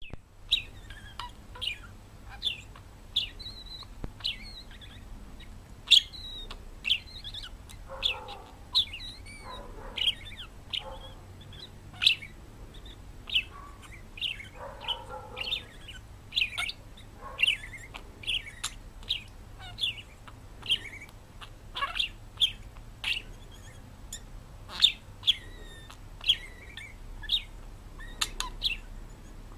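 Pet parrot giving short, sharp chirps over and over, about one or two a second, with a few lower, longer calls mixed in.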